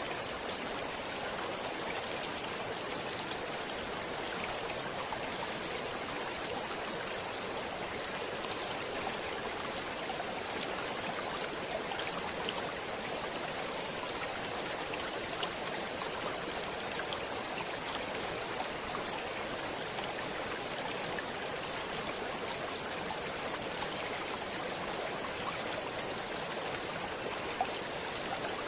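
Stream water flowing steadily, an even rushing with small splashes scattered through it.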